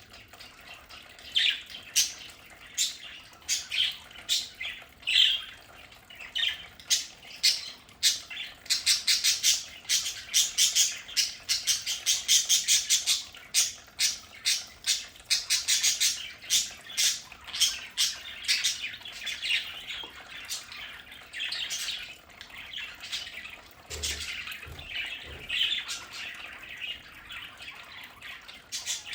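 A flock of budgerigars chattering and warbling, with many quick chirps and squawks overlapping, busiest in the middle stretch. A few soft low thumps about three quarters of the way through.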